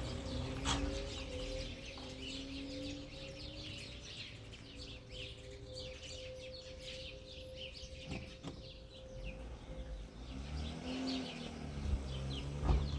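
Birds chirping, many short high calls, over a steady low hum.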